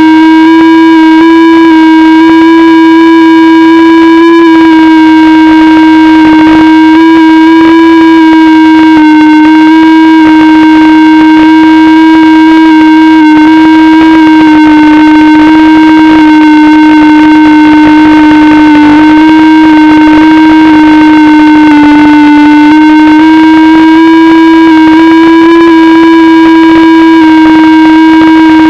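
FPV drone motors running with a loud, steady buzzing whine. The pitch shifts slightly up and down as the throttle changes, with small dips near the middle and after about twenty seconds.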